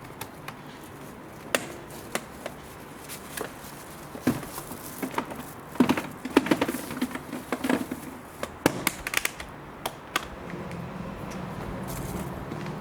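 Irregular knocks, taps and clatters, busiest from about a third of the way in to about two thirds.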